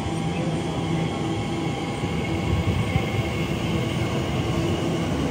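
Train running past on the main line: a steady rumble with a low hum over it, growing a little louder about halfway through, with a sharp knock about three seconds in.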